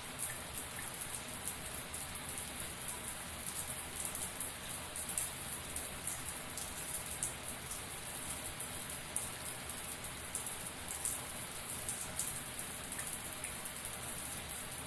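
Shower water running steadily: an even hiss of spray with many small, quick drop ticks.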